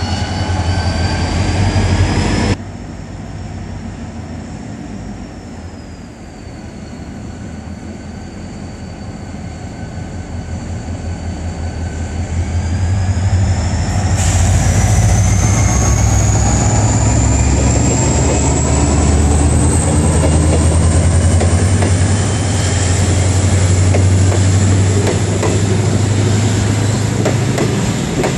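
Korail diesel-electric locomotive hauling Saemaeul-ho passenger coaches past: a low engine drone grows louder as it approaches, then a whine rises steadily in pitch under wheel noise from the rails. The first couple of seconds hold high squealing tones from another train, cut off suddenly.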